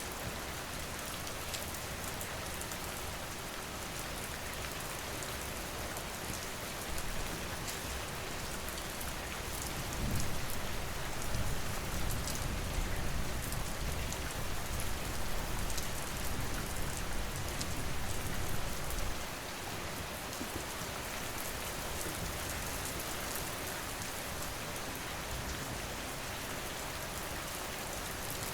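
Steady rain falling, with faint scattered crackles from a wood fire. A low rumble swells about ten seconds in and fades away about nine seconds later.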